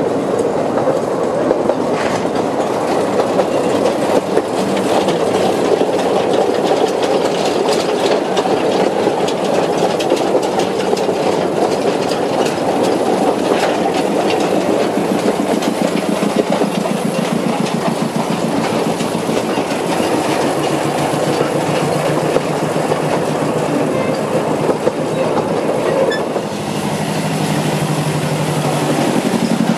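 Narrow-gauge passenger train running steadily, heard from aboard: carriage rumble with wheels clicking over the rail joints, and a low rhythmic pulse joining about halfway through.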